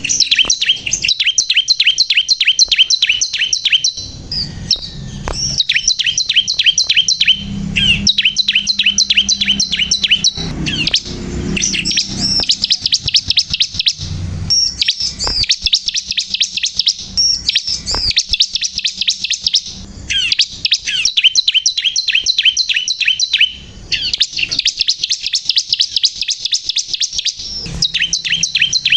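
Bar-winged prinia (ciblek kristal) singing continuously: phrases of rapid, high chirps repeated many times a second, each phrase lasting a few seconds with short breaks between.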